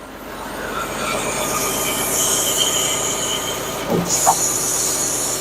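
Tractor engine running and rising in level as the loader's hydraulics lift the bucket, with a steady high-pitched squeal over the engine. A short knock comes about four seconds in.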